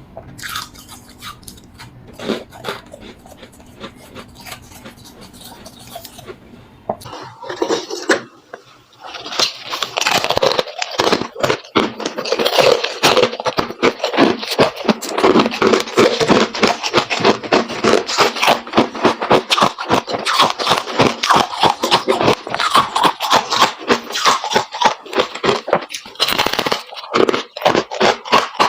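Close-up crunching of freezer frost being eaten: quieter scrapes and clicks at first, then from about a third of the way in a loud, dense run of rapid crunches.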